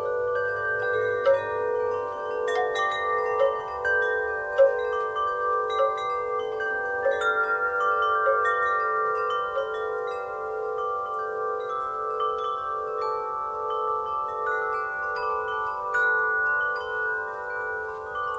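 Wind chimes struck irregularly by the breeze, several tubes ringing at once with long overlapping sustains and a slow beating pulse in the lowest tone.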